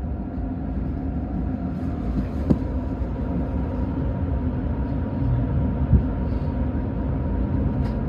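Commuter electric train running along the line, heard from on board: a steady low rumble with a faint steady hum and two short sharp clicks.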